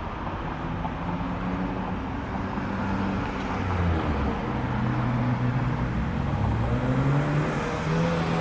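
Car engines running at low speed as cars roll past. The engine note drops about four seconds in, then climbs again and gets louder near the end.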